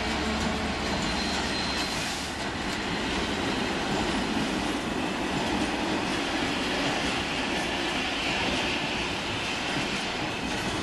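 Freight train passing close by: a Class 66 diesel locomotive followed by car-carrier wagons loaded with vans. The wheels clatter over the rails with a steady rumble, and a brighter, higher wheel noise swells near the middle.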